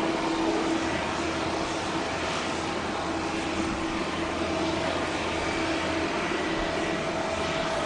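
Airbus A319 airliner's jet engines running steadily: an even rush of noise with a faint steady whine, holding at one level.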